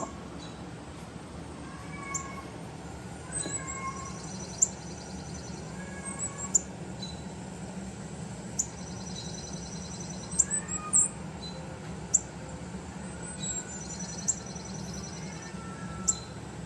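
Young Persian kittens mewing repeatedly, many short high mews scattered throughout, over a steady low hum.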